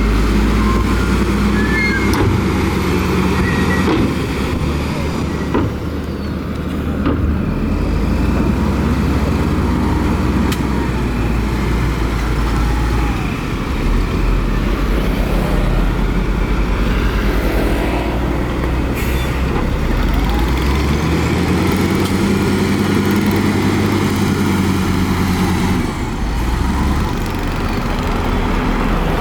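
Heavy diesel earthmoving machinery running at work, the engine note rising and falling several times as the machines rev under load and ease off.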